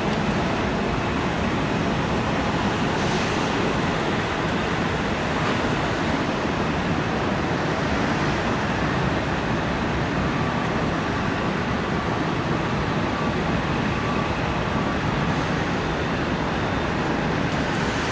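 Jet engines of a Boeing 757-200 landing, a steady loud rushing noise with a faint whine coming through about midway.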